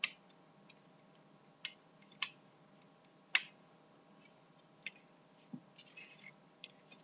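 Hard plastic parts of a B-daman marble-shooter toy clicking and snapping as a quick-loader magazine is fitted onto it: a handful of sharp, separate clicks, the loudest about three and a half seconds in, with soft handling rustle near the end.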